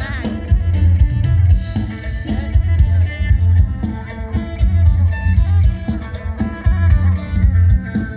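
Instrumental band music: drum kit with a strong bass beat and plucked guitar lines, without singing.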